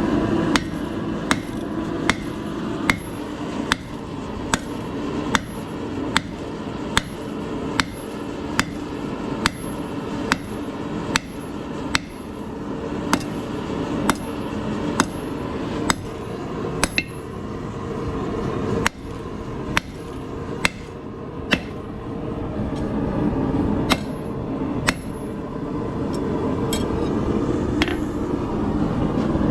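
Hand hammer striking hot steel bar stock on an anvil at a steady pace of about one blow a second, drawing out and thinning the end of a holdfast. After a pause, a few scattered blows come near the end, all over a steady rushing roar.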